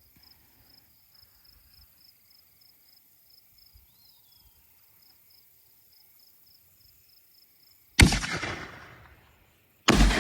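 A 6-inch fireworks canister shell going off: crickets chirping steadily, then a sharp loud boom about eight seconds in and a second boom about two seconds later, each echoing away slowly.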